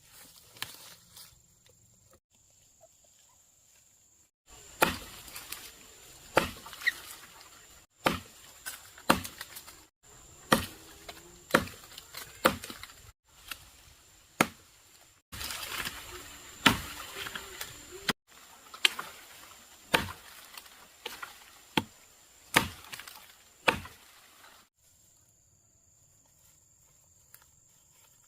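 Wood being chopped with a blade: sharp strikes about once a second, in short runs broken by abrupt cuts. A steady high insect drone sounds under it and carries on alone at the start and end.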